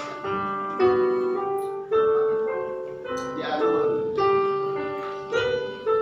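Piano playing a series of sustained chords, a new chord struck about once a second, as accompaniment for a children's choir.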